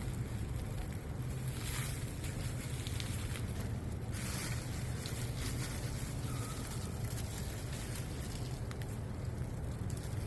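Steady low wind rumble on the microphone, with a few brief rustles, about two and four seconds in, from hands digging through soil.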